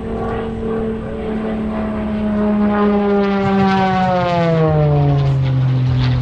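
Propeller airplane flying past, its engine note growing louder and then dropping in pitch as it goes by, about four seconds in.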